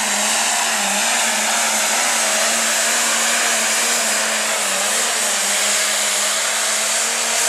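Light pro stock pulling tractor's turbocharged diesel engine at full throttle under the load of the sled, a loud, steady roar with a high whine riding over it.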